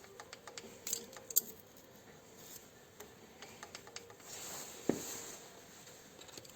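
Small metal parts and tools clinking and tapping as they are handled, with scattered light clicks and a few sharper knocks, about a second and a half in and again near five seconds in.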